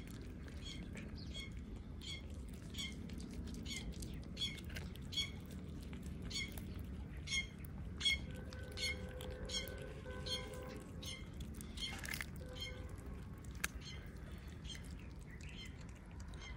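A small bird chirping over and over, two to three short high chirps a second, with a steady low background hum and cats chewing the chicken.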